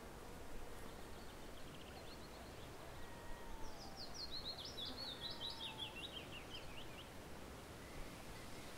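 A songbird sings: a faint short trill about two seconds in, then a louder phrase of rapid, high, downward-sliding notes lasting about three seconds, over a steady outdoor background hiss.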